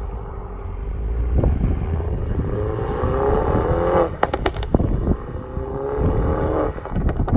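MINI John Cooper Works hatchbacks with turbocharged four-cylinder engines accelerating hard past. The engine note rises twice as they pull through a gear, and each rise ends in a quick cluster of sharp exhaust pops at the shift.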